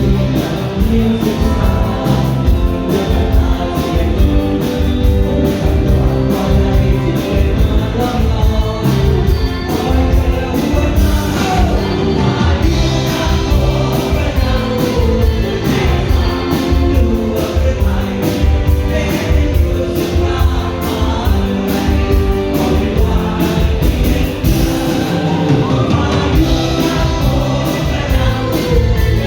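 Thai string-band pop song with singing over guitars and a steady drum beat.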